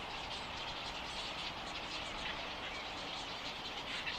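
Steady outdoor background noise with many faint, short, high chirps from birds scattered through it.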